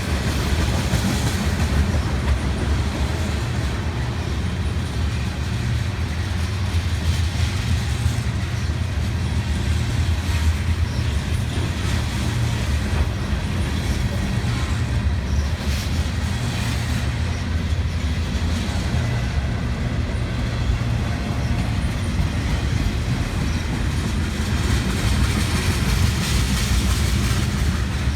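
Freight train rolling past, its cars rumbling steadily with the clatter of wheels on the rail joints.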